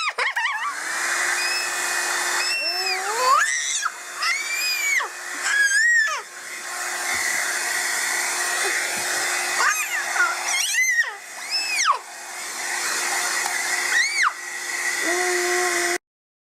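Handheld hair dryer running with a steady whooshing hiss and hum, switched on just under a second in and cut off abruptly near the end. Over it a young child gives several short, high squeals that rise and fall in pitch.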